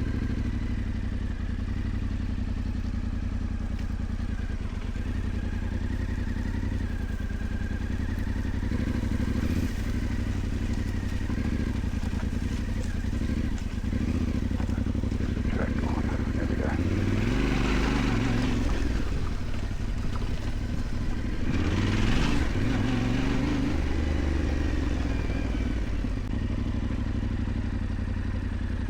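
Yamaha Ténéré 700's parallel-twin engine running steadily while riding, with the engine note swelling louder twice, at about two-thirds of the way through and again a few seconds later.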